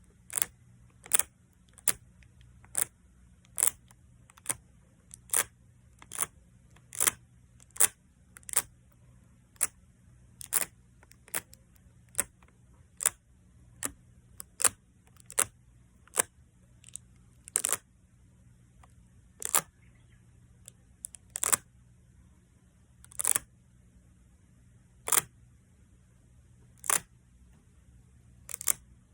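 Short, crisp sticky pops from a tacky tape surface being pressed and pulled away, one at a time at an even pace: about one a second at first, slowing to about one every two seconds in the second half.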